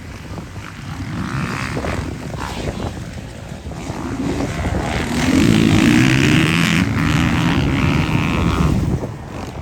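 Motocross dirt bike engines racing; one bike gets loud and close from about five seconds in, then drops away just before the end.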